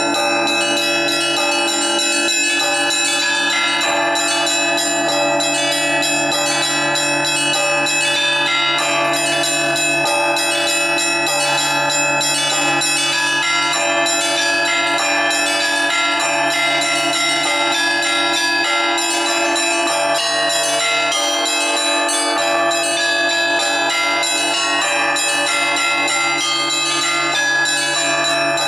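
Russian Orthodox church bells rung by hand by a single ringer: a dense, continuous peal of many small bells struck in quick succession over the steady hum of larger bells.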